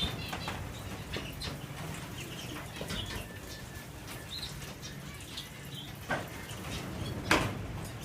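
Caged canaries fluttering and hopping, with a few brief high chirps and scattered clicks; two louder knocks come near the end.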